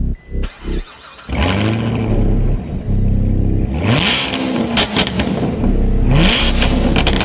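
Chevrolet C7 Corvette Stingray's 455-horsepower V8 revving. After a few short bursts, the engine note starts about a second in and climbs twice, each climb ending in a short loud burst.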